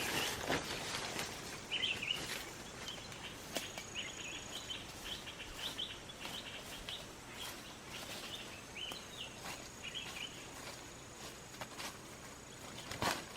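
Forest ambience: birds chirping in short repeated calls, with a thin steady high insect drone and scattered sharp clicks and knocks, the loudest near the end.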